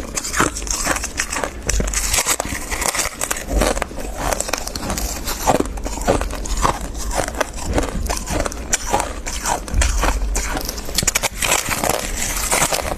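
Close-up crunching and chewing of dry, crispy freezer frost: many quick, irregular crackles with bites and chewing, with no pause.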